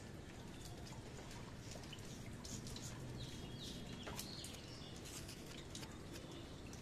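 Faint bird chirps, a few short high calls near the middle, over a steady low background hum with scattered small ticks.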